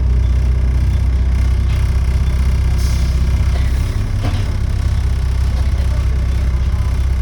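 Volvo B7TL double-decker bus's six-cylinder diesel engine running steadily, heard on board as a loud low drone; the exhaust is blown. The note dips briefly about four seconds in, with a short hiss a little before.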